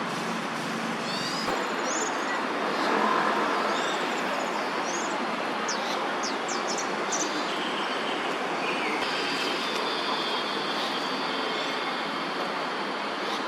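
Steady traffic noise from surrounding city roads, with small birds giving short high chirps between about one and nine seconds in.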